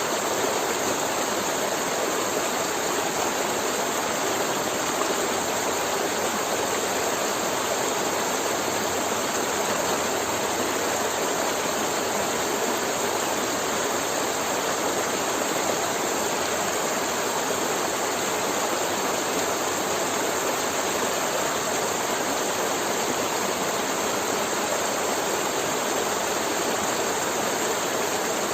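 River water flowing over a forest streambed, an even, unbroken rush of water.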